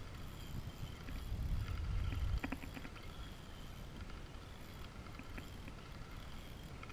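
Kayak on the sea with water sloshing against the hull, swelling louder about two seconds in, followed by a few sharp clicks.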